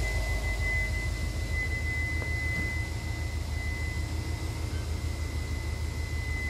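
2015 Subaru WRX STI's turbocharged flat-four idling with the air-conditioning blower running on low, a steady low hum and even air rush, with a thin steady high-pitched tone throughout.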